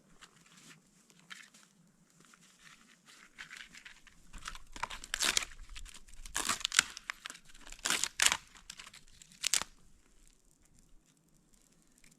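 Damp rotten wood and bark being broken and torn apart by hand as kindling: irregular crackling and tearing, with a handful of sharp snaps in the middle.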